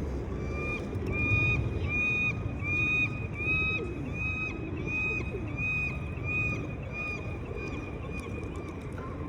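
A bird calling a nasal, honk-like note over and over, about twice a second, fading toward the end, over a steady low rumble of city traffic.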